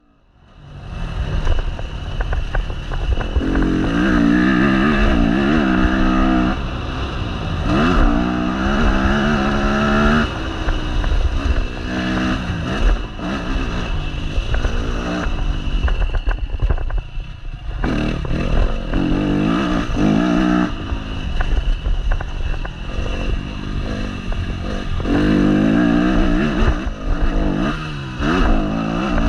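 Yamaha motocross bike's engine heard from an onboard camera, revving up and falling back again and again as the throttle is worked. It briefly goes off throttle about two-thirds of the way in, with low rumble and wind noise underneath.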